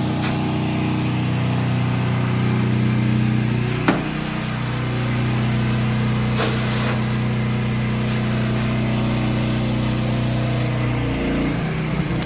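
Pressure washer engine running steadily, with a sharp click about four seconds in and a brief dip in pitch near the end.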